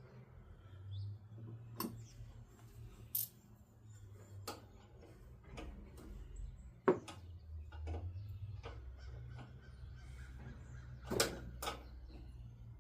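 Hand tools at work on a mower's starter solenoid: scattered metal clicks and clinks of a wrench and small parts, one sharper knock about seven seconds in, over a low steady hum.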